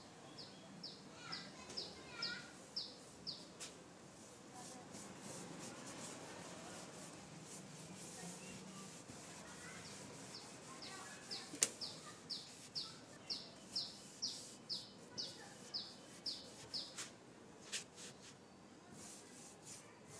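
A songbird calling in two long runs of short, high, downslurred notes, about three notes a second: one run at the start and another starting about halfway through. A single sharp click is heard between them.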